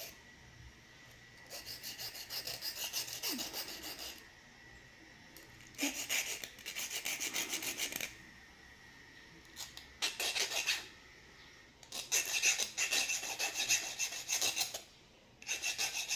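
Hand file scraping the rusted metal contact of an impulse bag sealer, in four bursts of quick back-and-forth strokes with short pauses between. The rust is being filed off to tighten a suspected loose connection, which the repairer hopes is why the sealer is not heating up.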